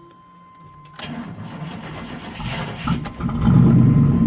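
GMC Yukon's engine cold-starting at 26°F: about a second in, the starter cranks for roughly two seconds before the engine catches and keeps running steadily. It is slow to fire, which the owner puts down to the truck not having been driven for two weeks.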